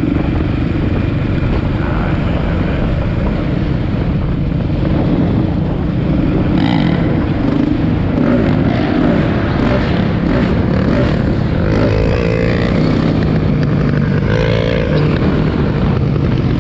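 Dirt bike engine running while riding, with a steady, loud rush of noise; the engine pitch rises and falls briefly a couple of times, around twelve and fourteen seconds in.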